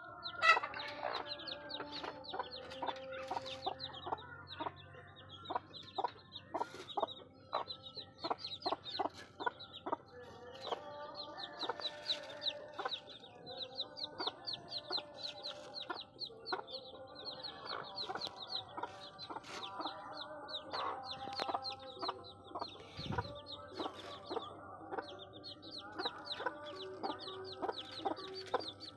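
A desi hen clucking while her chicks peep continuously, in many quick, high cheeps.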